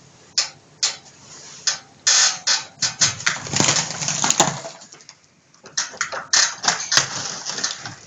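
Bricks and rubble from an old brick fireplace being handled during demolition: irregular clinks, knocks and scrapes of brick on brick, with a short lull about five seconds in.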